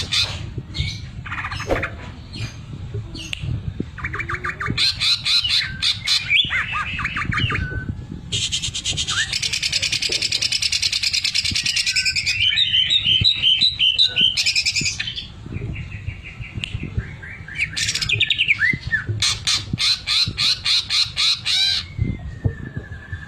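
A cucak ijo (green leafbird) sings a fast, varied song of rapid rattling trills. A long, dense, buzzing rattle in the middle is the kind of 'sewing machine' (mesin jahit) mimicry that keepers prize.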